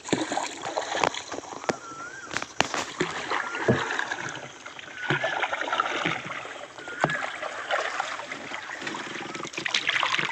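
A small country boat being paddled: water swishing and splashing with each stroke, with sharp knocks of the paddle against the hull. Short chirping calls recur every second or two.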